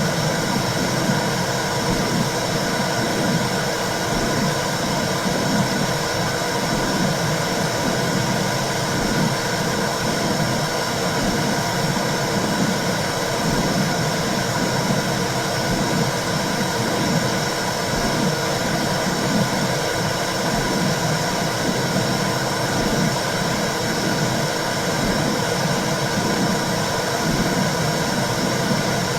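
Womb sound: a steady whooshing noise with a low, regular pulse in it, like blood flow and heartbeat heard from inside the uterus.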